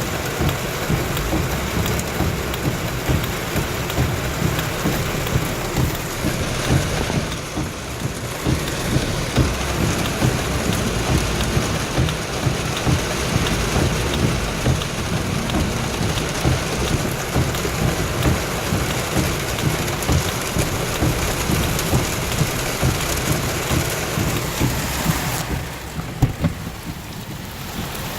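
Heavy rain pouring down in a thunderstorm, a steady dense hiss with thunder rumbling low beneath it. The hiss of the rain grows softer near the end.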